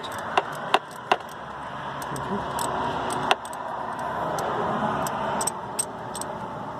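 A 3/8-inch ratchet with an extension and spark plug socket working a spark plug loose from the engine: a few sharp clicks in the first second, then a longer stretch of metallic rattling and ticking as the plug is backed out.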